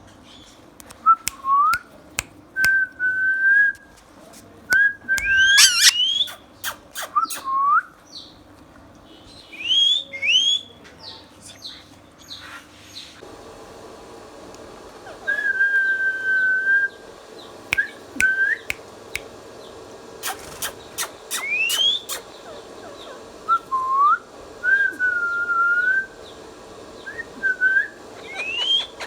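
Indian ringneck parakeet whistling: a string of short held whistles and quick upward-sweeping whistles, with sharp clicks between them.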